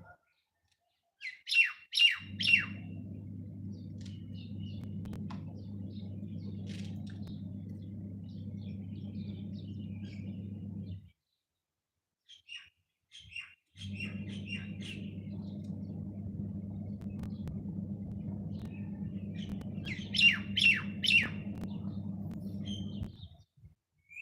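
Small birds chirping: twice a loud run of three or four quick, downward-sweeping chirps, with softer scattered chirps between. A steady low hum runs underneath and cuts in and out abruptly.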